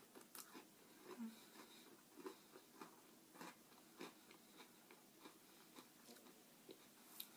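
Faint chewing and crunching of a sandwich cookie (a key lime pie Oreo) being eaten: small crisp crunches and mouth sounds about every half second.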